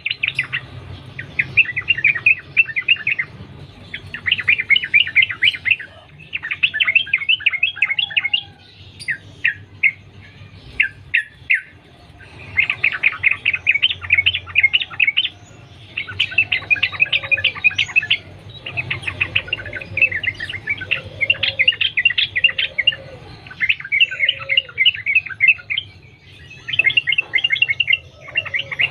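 Yellow-vented bulbul (trucukan) singing in rapid run-on bursts of chirping notes. The bursts come every second or two with short pauses between them. Fainter, lower notes repeat several times in the middle, over a steady low hum.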